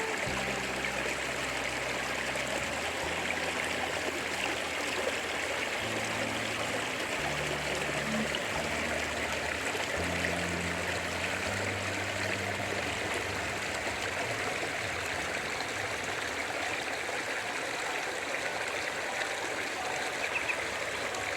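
A stream of water flowing steadily, a constant rushing babble, with low, soft held tones changing every second or two beneath it.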